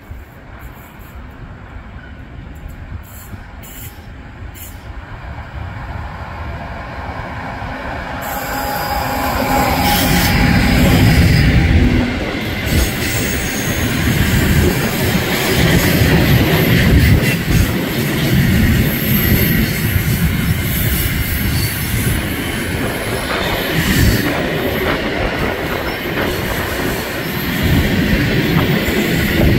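An electric locomotive hauling a long freight train of open wagons approaches, growing steadily louder, and passes about ten seconds in. The wagons then roll past with a continuous low rumble, a high wheel squeal and occasional clatter over rail joints.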